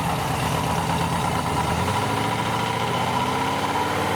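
V8 car engine running at low revs as the car pulls away, with a steady deep note that shifts lower about two seconds in.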